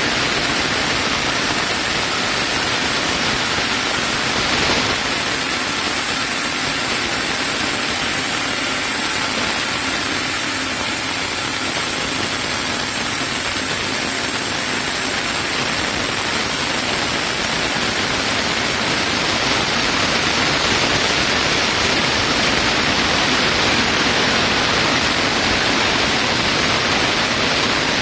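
Sawmill saw running steadily through a chinaberry log: a loud, even rush of noise with a constant high whine above it.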